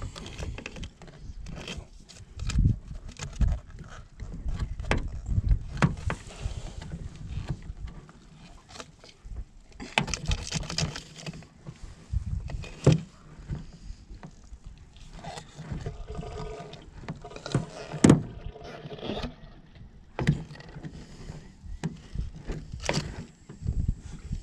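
Irregular knocks, thumps and scrapes on a jon boat and its gear while a landed alligator gar is handled aboard, with several sharp clacks, the loudest about eighteen seconds in.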